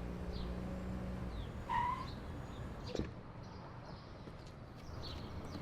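Small birds chirping now and then over quiet outdoor ambience, with one louder rising chirp just before two seconds in. A low steady hum stops about a second in, and there is a faint click about three seconds in.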